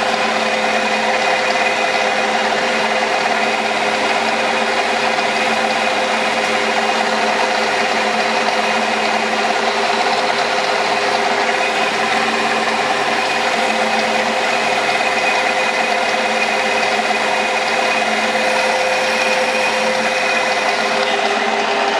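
Metal lathe running steadily under power feed while turning a taper, its motor and gearing giving a constant hum with a steady whine over it.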